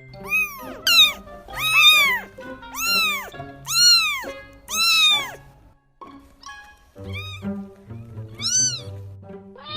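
Domestic cat meowing repeatedly: about six loud meows in quick succession, each rising then falling in pitch, then a short pause and a few fainter meows. Background music plays underneath.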